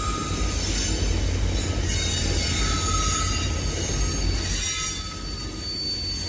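Railroad cars rolling past with a steady low rumble, their wheels squealing thinly and high-pitched against the rails.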